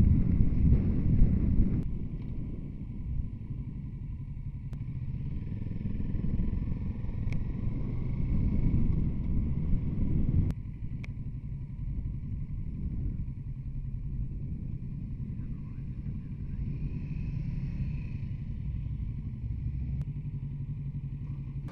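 Kawasaki Z650RS parallel-twin engine running at low city speed, a steady low rumble that swells a little before dropping off abruptly about halfway through.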